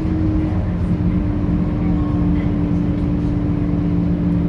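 Scania K230UB bus's diesel engine and drivetrain running steadily with a constant hum over low rumble, its pitch stepping down slightly about a second in.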